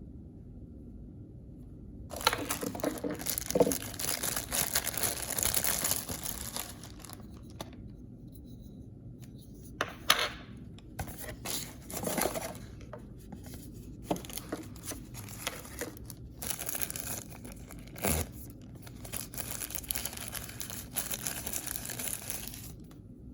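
Packaging torn open and crinkled by hand, in two long stretches with short crinkles and taps between them.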